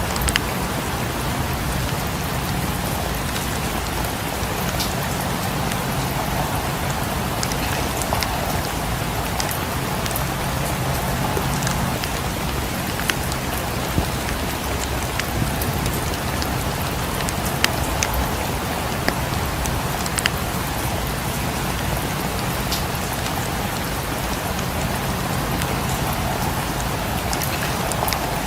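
Steady rain falling, with scattered sharp ticks and pops over the hiss.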